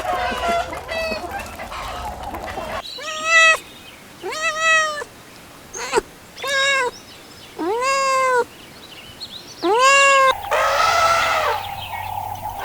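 Domestic cat meowing repeatedly: about six drawn-out meows, each rising then falling in pitch, beginning about three seconds in. Fainter, higher calls come before them.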